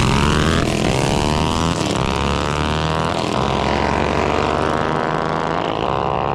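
Small mini bike engines at full throttle on a drag pass. The engine pitch climbs in several rising sweeps, dipping and climbing again a few times.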